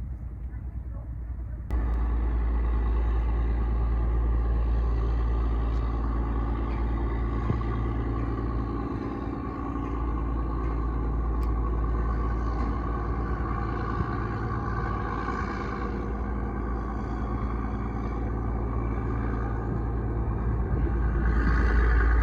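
Steady low rumble and hum of a boat's engine, stepping up abruptly about two seconds in and then holding even.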